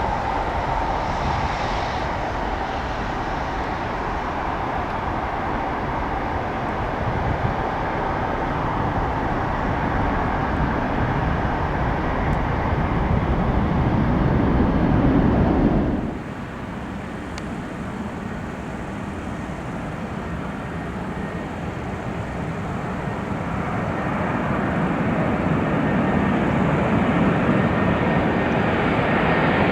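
Jet engine noise from the Airbus A330F cargo jet taking off, building over about 16 seconds until it cuts off abruptly. A quieter jet sound then grows steadily louder: the four-engine Boeing 747-400F freighter approaching to land.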